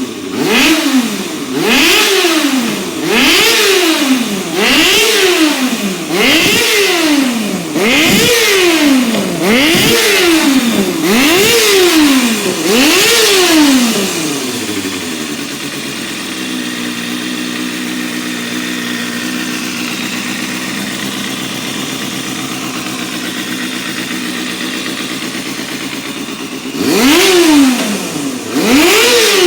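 Kawasaki Balius II ZR250B's 250 cc inline-four engine being blipped over and over, its pitch shooting up and falling straight back about once a second. About halfway through it settles to a steady idle, then is revved again in quick blips near the end.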